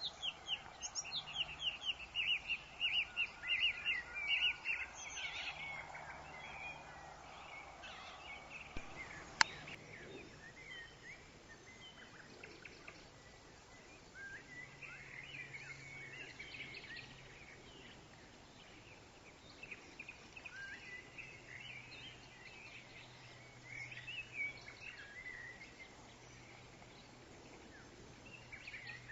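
Woodland birds singing and chirping over a soft background of wind in the trees. A fast trill of rapidly repeated notes fills the first few seconds, then scattered chirps and short whistles follow. A single sharp click sounds about nine seconds in.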